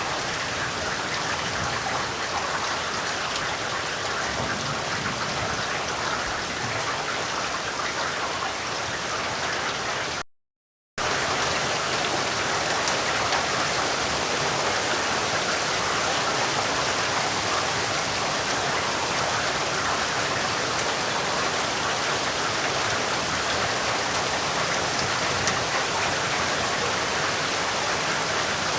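Steady rainfall, an even, dense hiss of drops. About ten seconds in, it cuts out to silence for about half a second, then resumes slightly brighter.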